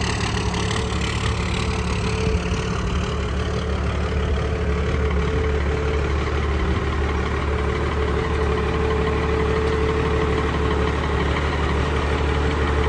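12-valve Cummins inline-six diesel idling steadily, cold, just after a hard cold start.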